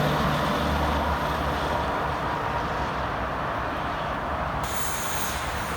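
Highway traffic passing: a steady rush of tyre and engine noise, with a low engine hum in the first second or so.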